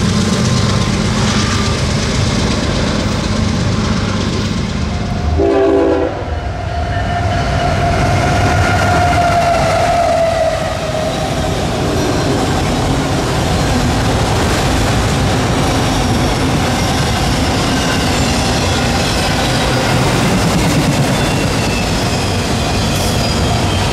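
CSX freight train passing close: the diesel locomotive's engine at first, a short horn note about five and a half seconds in, then a long line of autorack cars rolling by with steady rumble and wheels clicking over the rail joints.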